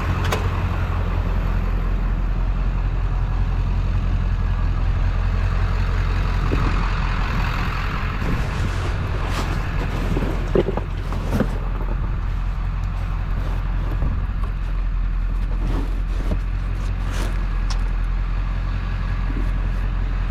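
Steady low rumble, with scattered knocks and clatters, several close together about ten to eleven seconds in.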